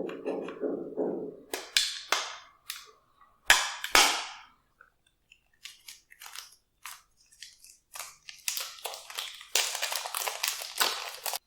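Glossy slime being worked by hand. A short run of rhythmic squishing comes first, then a few loud sharp pops, then runs of crackling clicks that grow dense and cut off suddenly near the end.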